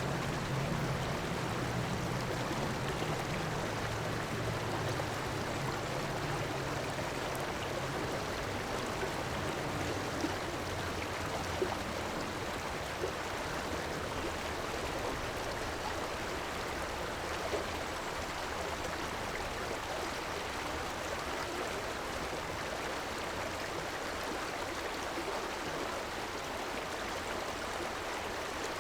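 A river flowing steadily: an even, unbroken rush of moving water, with a low hum underneath for about the first twelve seconds that then fades away.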